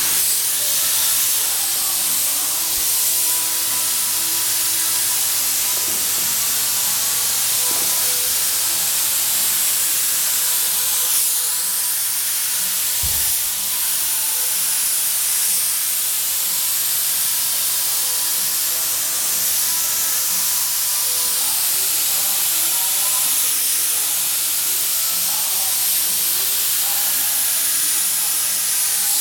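Compressed-air mini spray gun spraying paint: a steady, continuous hiss of air and atomised paint that shifts slightly in tone as the gun sweeps along the panel.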